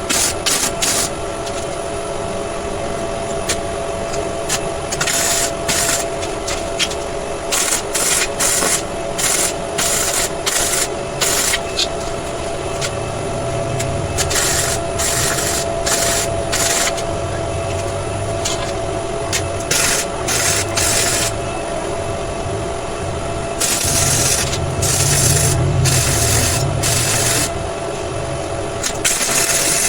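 Steel being worked by hand: rough rasping strokes, short and irregular, with a few longer runs near the end, over a steady thin hum.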